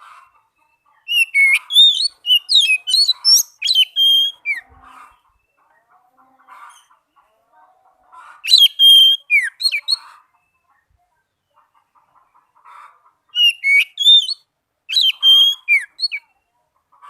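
Oriental magpie-robin (kacer) singing loud, varied whistled phrases with quick rising and falling notes, in three bursts of song separated by pauses.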